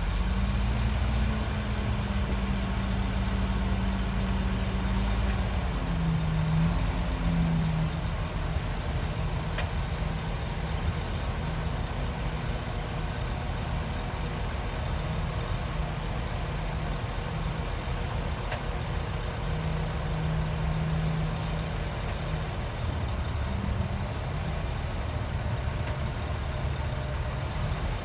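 Heavy diesel engine of earthmoving machinery running steadily, its pitch shifting a little a few times.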